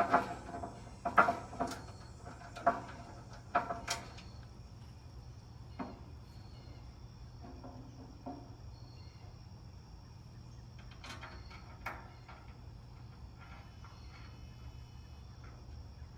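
Metal grill parts and hardware being handled: a run of sharp knocks and clatters over the first four seconds, then a few lighter clicks about eleven to twelve seconds in, over a faint steady high chirr.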